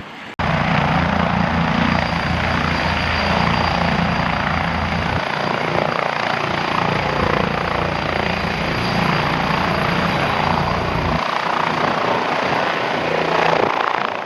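Air ambulance helicopter running close by: a loud, steady rush of rotor and engine noise with a thin high whine. The low rotor drone falls away about eleven seconds in.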